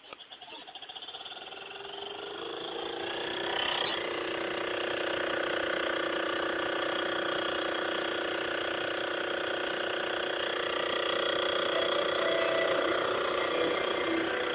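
Montgomery Ward CED videodisc player spinning up after play is pressed. Over about three seconds it builds into a loud, steady, lawnmower-like drone made of several pitches. The noise comes from a newly fitted belt pulley set too low.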